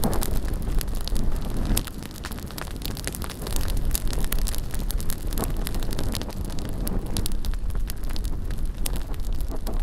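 Bonfire crackling with many sharp pops, over a low rumble of wind buffeting the microphone.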